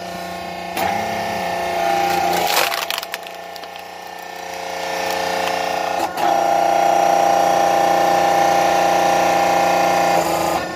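Electric 380 V hydraulic log splitter running under load, its motor and pump humming and labouring harder as the wedge forces through a log. The wood crackles and splinters about two and a half seconds in, and cracks sharply again about six seconds in.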